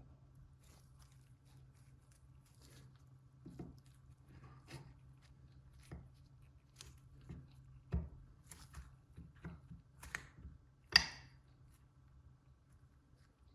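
Scattered light clicks and taps of small metal and plastic parts being handled on a workbench during a horse clipper strip-down or reassembly, with a sharper click about eight seconds in and the loudest one about eleven seconds in, over a faint steady low hum.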